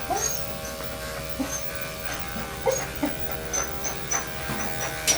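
Electric dog grooming clippers running with a steady buzz as they clip through matted coat. The dog gives short, rising whimpers over it several times.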